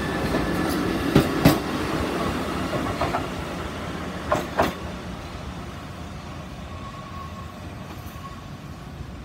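Kotoden Kotohira Line electric train pulling away from the station, its wheels clacking over rail joints in pairs. The rumble fades as it moves off.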